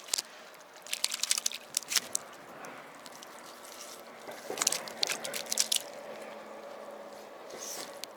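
Close crisp crunching and clicking handling noises in two bursts, one about a second in and another about four and a half seconds in.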